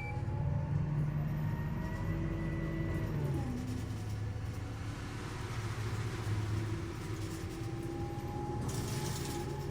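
City bus engine and drivetrain running, heard from inside the passenger cabin, with tones that slide down in pitch about three seconds in. A hiss joins near the end.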